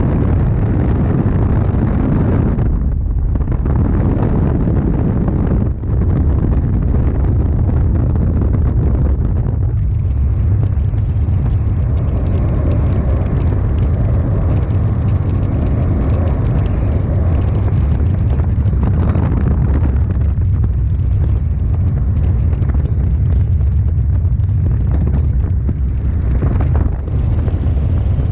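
Robinson R44 helicopter in flight with the doors off: a steady low drone from the rotor and six-cylinder piston engine under heavy wind rush on the microphone.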